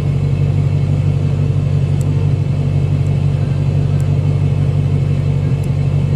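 Supercharged Dodge Challenger engine idling with a steady low hum, heard from inside the cabin.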